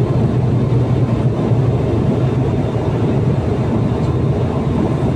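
Cabin noise of an ATR 72-600 turboprop: a steady low hum from the engines and propellers over a constant rushing noise.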